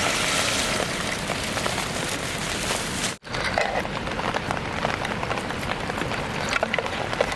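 Steady rain pattering, with many individual drops ticking on nearby surfaces. The sound cuts out abruptly for a moment about three seconds in.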